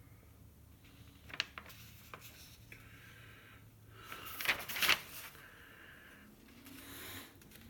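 Faint handling noises: rustling and a few light clicks, with a louder rustle about four to five seconds in.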